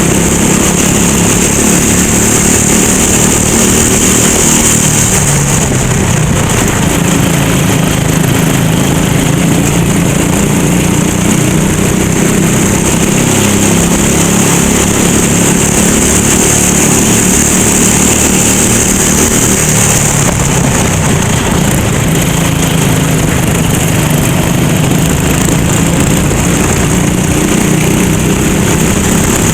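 Rental go-kart engine running at racing speed, its pitch rising and falling as it accelerates and slows, with a high hiss that fades out twice and comes back.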